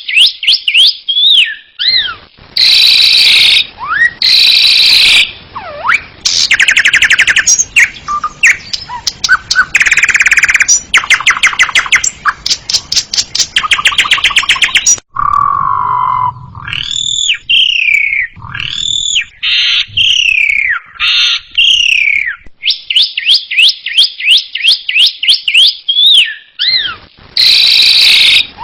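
Asian pied starling (jalak suren) singing a long, loud, varied song: rapid runs of repeated sharp notes, harsh buzzy phrases, and clear whistled notes that rise and fall in pitch.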